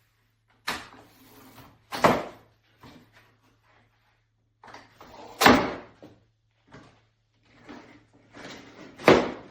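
A series of hard knocks and clatters with quieter shuffling between them. The loudest strikes come about two seconds in, halfway through and near the end.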